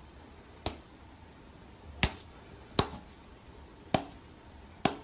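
Five sharp taps or clicks at uneven intervals, over a faint low hum.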